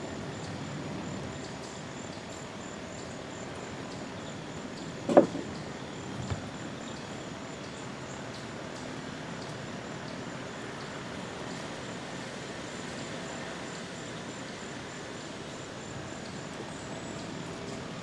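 Outdoor ambience: steady background noise with an insect chirping in a fast, even, high-pitched pulse throughout. One sharp knock about five seconds in, followed by a lighter tap a second later.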